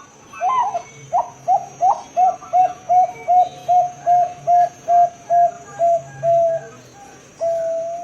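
Zebra dove (Bangkok perkutut) cooing: a quick run of about fifteen short coos at a steady low pitch, roughly three a second, then one longer drawn-out coo near the end.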